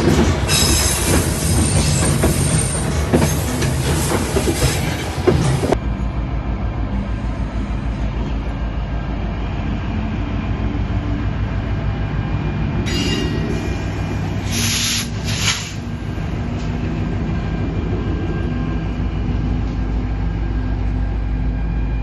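White Pass & Yukon Route narrow-gauge train running on the rails. A loud, rough stretch changes abruptly about six seconds in to a steady low rumble, and the wheels squeal against the rails for a couple of seconds just past the middle.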